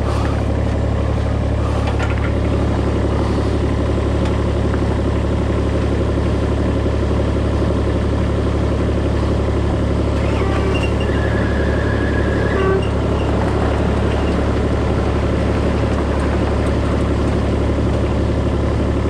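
Engine of the swivelling machine lifting a sawmill head, running steadily at a constant speed.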